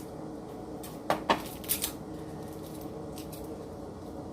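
Kitchen handling noise: a few sharp clicks and knocks, about a second in and again just before two seconds, over a steady low hum.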